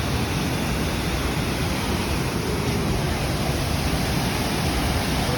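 Steady rushing of water pouring over a waterfall, a loud, even roar with no breaks.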